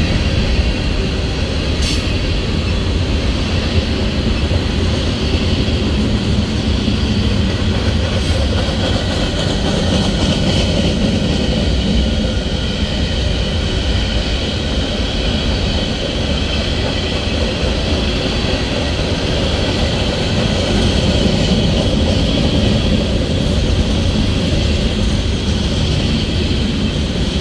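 Freight cars of a long train rolling past: a steady noise of steel wheels running on the rails, heaviest in the low end.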